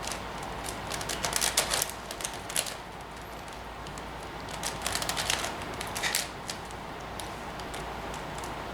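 Plastic 5x5 Rubik's cube (Professor's cube) being turned by hand: rapid clicking and clacking of its layers in two quick flurries of turns, the first about a second in, the second around the middle, with quieter handling between.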